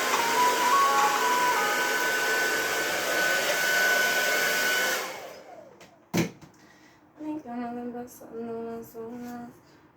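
Hand-held hair dryer blowing steadily, switched off about five seconds in and dying away. A sharp click follows a second later, then a voice humming a tune.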